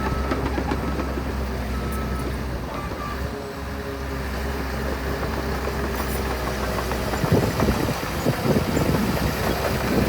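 Heavy diesel earthmoving machinery at work: an engine drones steadily, and from about seven seconds in come loud, irregular knocks and rumbling.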